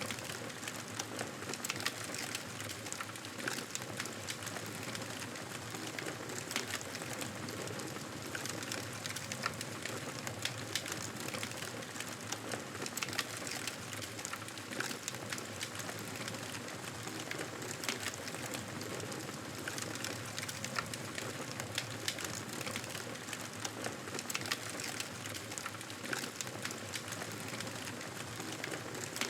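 Wood fire crackling steadily, a constant hiss dotted with many small, irregular pops and snaps.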